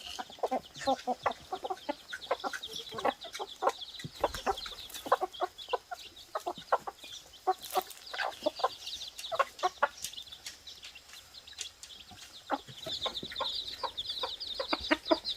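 Chickens clucking in many short, repeated calls, with a band of high chirping over them that grows louder near the end.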